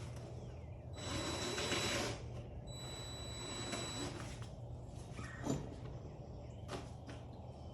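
Hand-tool work on a dirt bike being taken apart: a rasping burst about a second in, a fainter stretch after it, then two sharp clicks.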